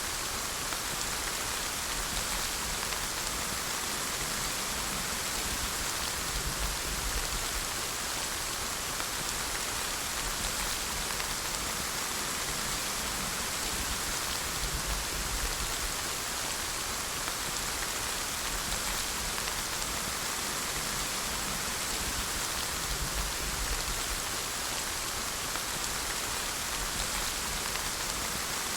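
Steady rain falling, an even patter of raindrops on surfaces.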